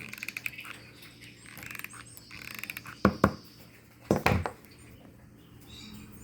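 Small clicks and taps from working a hot glue gun over paper and cloth, with a couple of sharp louder clicks about three seconds in and another just after four. Lovebirds chirp in the background.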